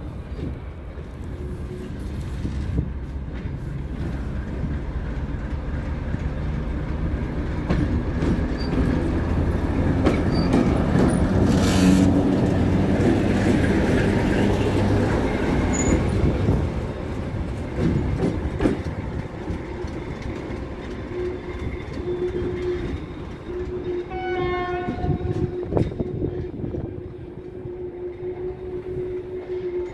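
Diesel locomotive hauling a freight train past: its engine drone grows louder until it draws level about ten to fifteen seconds in, then the wagons roll by with clicking of wheels over the rails and a steady squeal through the last third.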